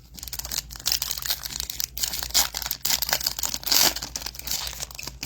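A trading-card pack wrapper being torn open and crinkled by hand: a dense run of crinkling and tearing, loudest about two and a half and four seconds in.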